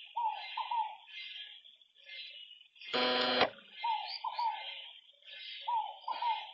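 Outdoor chorus of animal calls: pairs of short calls that fall in pitch, repeating every second or two over a steady high chirring. About three seconds in, one loud, harsh buzzing call lasts about half a second.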